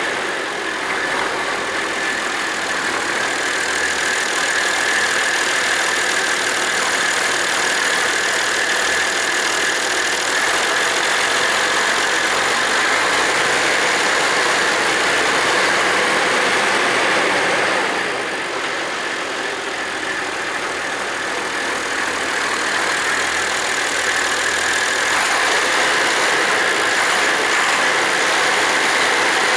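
Massey Ferguson 1135 tractor's six-cylinder diesel engine running steadily at idle, its hydraulic pump freshly resealed and running without leaks.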